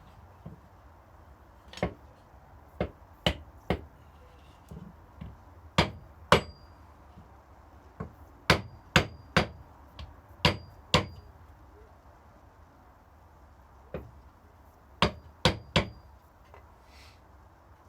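A small hammer tapping a glued wooden filler strip down into the truss-rod slot of a mandolin neck: about fifteen sharp taps in groups of two or three, some with a brief high ring.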